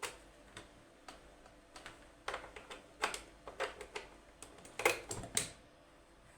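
Irregular light clicks and taps of hard objects being handled, sparse at first, then coming thick and fast, loudest about five seconds in before stopping.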